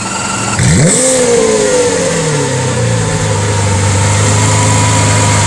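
Lamborghini Aventador LP700-4's V12 with a Capristo exhaust starting up. The starter whines briefly, then the engine catches with a sharp rev flare about a second in and settles over a couple of seconds into a steady idle.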